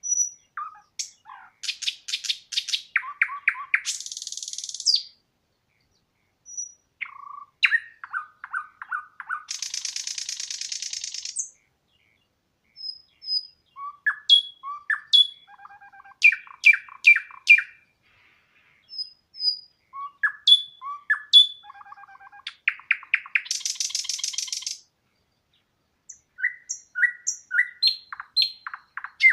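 Songbird singing in repeated phrases of chirps and quick note series, each ending in a high buzzy trill, with short pauses and single chirps between phrases.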